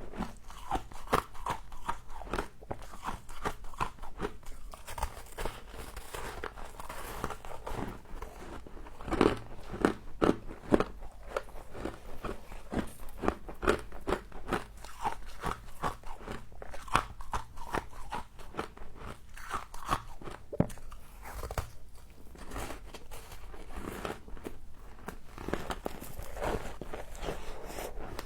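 A person biting and chewing icy frost close to the microphone: a dense, irregular run of crisp crunches, several a second.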